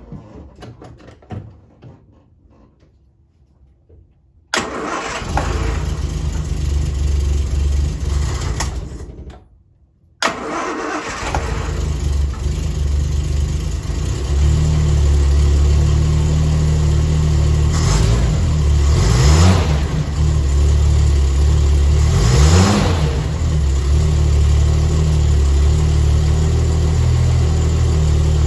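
Triumph GT6's straight-six engine cold-starting on partial choke. It catches about four seconds in and runs roughly for about five seconds, then cuts out. It fires again at once, is blipped twice, and settles into a steady, fast choke idle.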